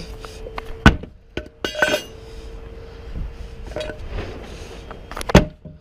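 Hard strikes against a car window, with a clinking, ringing rattle of glass about two seconds in and one more hard hit near the end.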